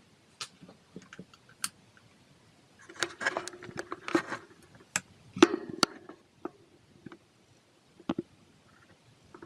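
Scattered light clicks and knocks of objects being handled, with a busier clatter about three seconds in and again around five and a half seconds.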